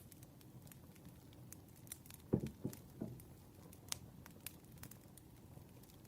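Campfire crackling: sparse sharp pops and clicks over a faint low hiss, with three soft low thumps a little over two seconds in.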